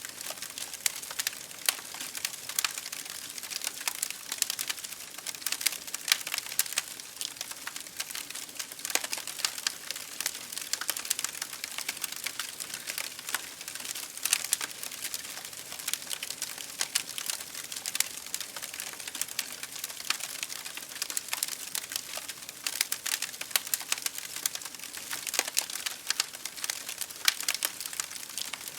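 Wood fire crackling in a fireplace, with dense irregular snaps and occasional louder pops, over a steady hiss of rain pattering on a window.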